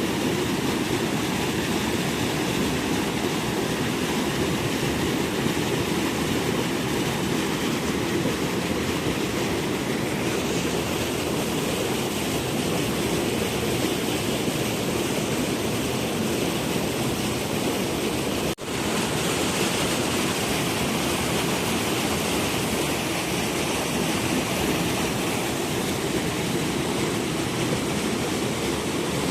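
Steady rush of flowing water, an even noise with no distinct events, broken off for an instant about two-thirds of the way through.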